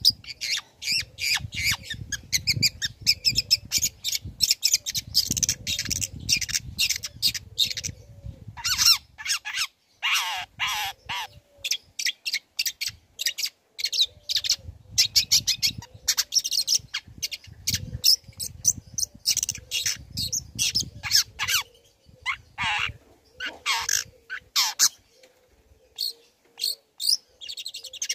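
Long-tailed shrike (cendet) singing in full voice: a rapid, varied string of sharp chirps and chattering notes with some falling sweeps, broken by short pauses.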